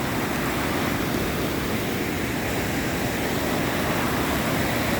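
Creek in flood running high and fast: a steady rush of water.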